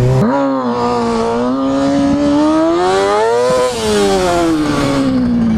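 Kawasaki ZX-6R sport bike's inline-four engine through a Two Brothers Racing full exhaust system, pulling up through the revs under acceleration for about three and a half seconds, then easing off as the revs fall near the end.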